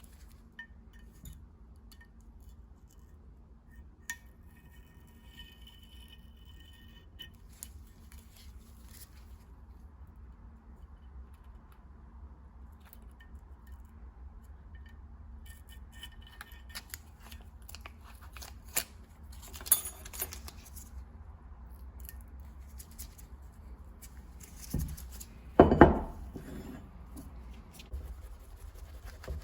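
Small brass tool parts clinking and tapping as they are handled, with brief metallic ringing now and then. There is a louder knock a few seconds before the end.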